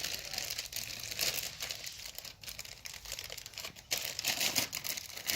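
Rustling and scattered light clicks as clutch plates for a Suzuki Hayabusa clutch pack are picked up and handled during reassembly.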